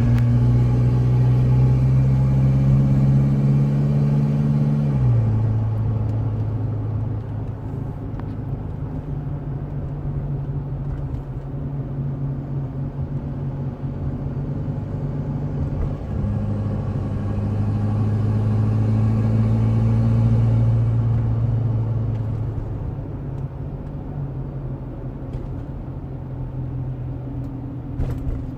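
2016 Chevrolet Colorado's 2.8-litre Duramax four-cylinder turbodiesel, fitted with an S&B cold air intake, heard from inside the cab while driving. The engine drone climbs under acceleration for about five seconds, drops suddenly in pitch and level, then climbs again around the middle before easing back.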